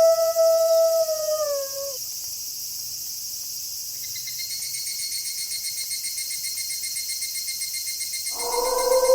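A wolf howl held on one pitch, then sliding down and trailing off about two seconds in, over a steady high chirring of night insects. A fast pulsing insect trill joins at about four seconds, and another wolf howl begins near the end.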